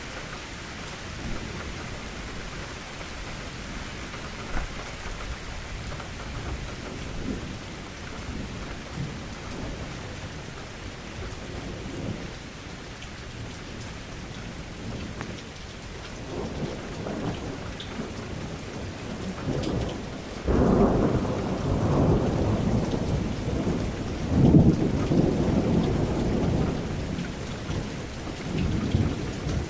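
Steady rain falling, with thunder: a low rumble rolls in about two-thirds of the way through, swells to its loudest a few seconds later, and another rumble rises near the end.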